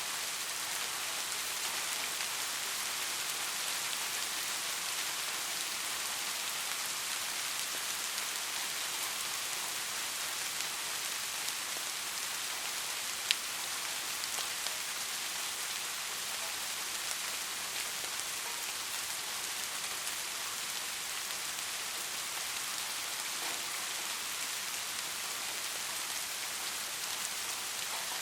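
Steady rain falling on a street, an even hiss of drops. A single sharp tick stands out about halfway through.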